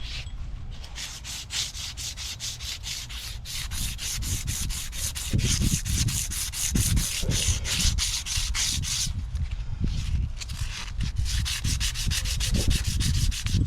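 Rapid back-and-forth hand scrubbing or sanding strokes, several a second, with a short pause about nine seconds in.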